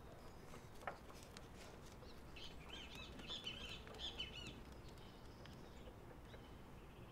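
A bird chirping a quick run of short, high notes for about two seconds, over a faint background hiss, with a single sharp tap about a second in.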